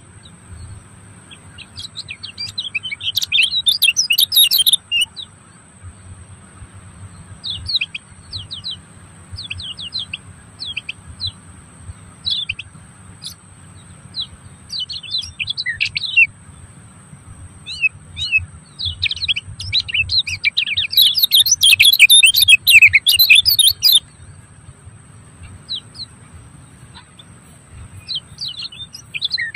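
Birds chirping in bouts of quick, repeated high calls, busiest about three to five seconds in and again from about nineteen to twenty-four seconds in.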